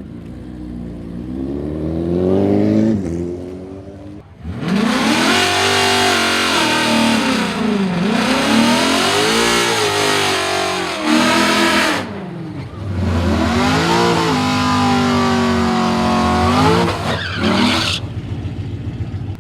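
A car engine revving hard: the pitch climbs about a second in, then the engine runs loud with the revs falling and climbing again several times, dips briefly, holds high and cuts off suddenly near the end.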